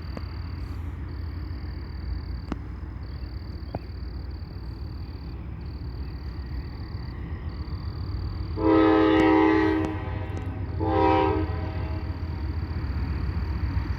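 Nathan K5LA chime horn on a CSX GE AC4400CW locomotive sounding one long blast about nine seconds in and a short one about two seconds later, over the low rumble of the locomotive's diesel engine pulling the train.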